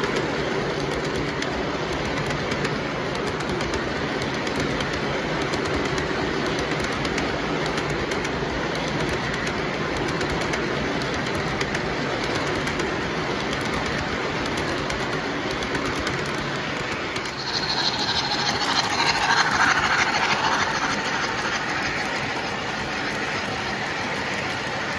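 Model train running steadily on its track. About two thirds of the way in, a louder hiss comes in for about three seconds, then fades.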